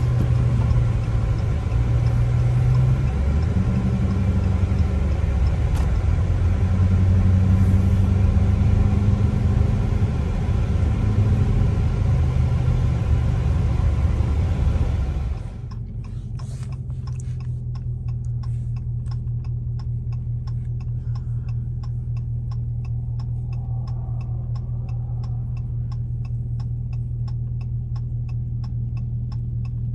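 Loud exhaust of a Dodge R/T heard from inside the cabin while driving, its rumble rising and falling. About halfway through it settles to a steady low idle, with a turn signal ticking evenly several times a second.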